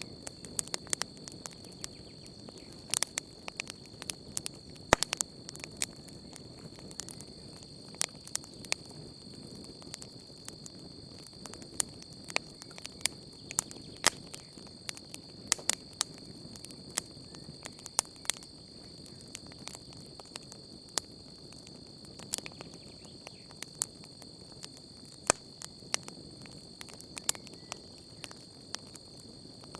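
Wood campfire crackling, with irregular sharp pops over a low steady hiss of the flames, while crickets trill in a steady, continuous high tone behind it.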